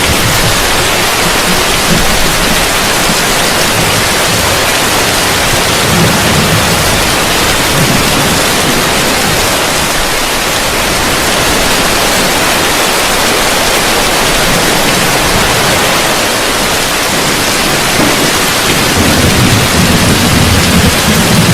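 Heavy rain falling on a roof: a steady, dense hiss. A low rumble of thunder builds near the end.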